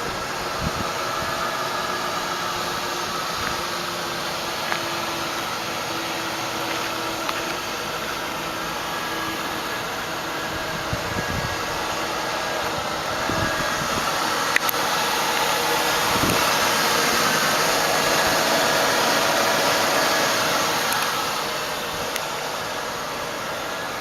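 Lincoln Town Car limousine's 4.6-litre V8 idling, under a steady hiss that grows louder in the second half and eases off near the end.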